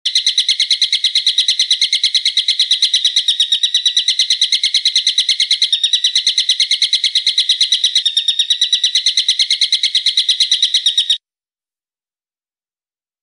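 A songbird's fast, high-pitched trill of evenly repeated notes, about eight a second, held without a break for about eleven seconds and then cutting off suddenly.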